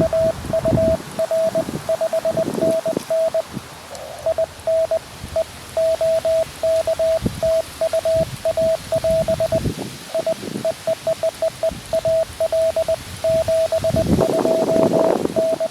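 Morse code (CW) tone from a QRP Labs QMX transceiver, one steady pitch keyed on and off in dots and dashes during a contact exchange. Wind buffets the microphone with low rumbles, strongest near the end.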